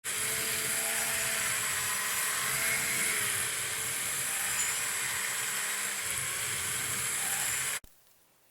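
Electric power tool running steadily for nearly eight seconds, its pitch wavering slightly, then cutting off abruptly.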